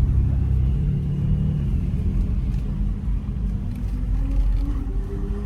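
BMW X3 M running at road speed: a steady low engine and road rumble, with a faint rising note near the end.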